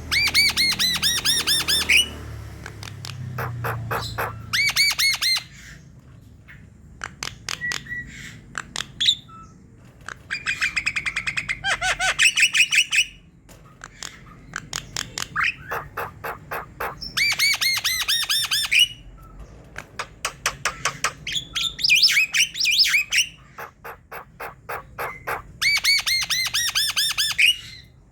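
Javan mynas (jalak kebo) chattering and singing: bursts of a second or two of rapid, harsh repeated notes, several times over, with sparser single calls between them.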